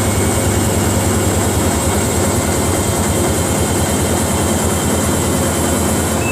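Samsung front-loading washing machine in its final spin at high speed, the drum running loud with rapid thudding as the machine shakes hard enough to jump.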